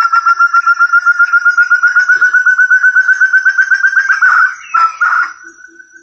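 Forest partridge (puyuh hutan, burung terung) calling: a fast, even run of clear whistled notes, about eight a second, slowly climbing in pitch. About four seconds in the run breaks into a few ragged notes, then fades out near the end.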